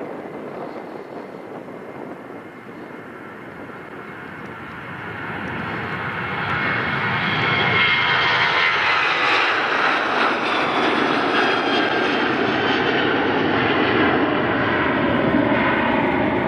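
Jet airliner passing close, its engine noise building over several seconds to a loud, steady level, with a whine gliding in pitch near the peak.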